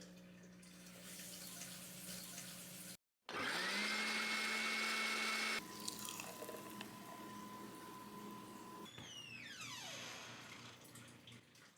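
A series of short household sound clips. The loudest is a small electric motor that starts up with a rising whine and then runs steadily for about two seconds, like a kitchen blender. After it comes a quieter steady hum, then a few falling, whistle-like glides near the end.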